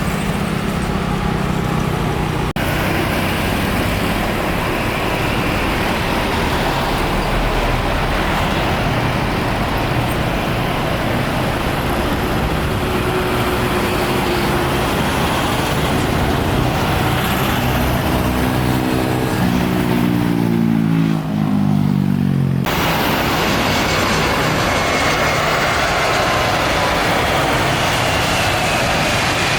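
A steady roar of engines and vehicle traffic on an airport airside. About eighteen seconds in, one engine passes close with its pitch falling. The sound cuts abruptly twice, near the start and about two-thirds of the way through.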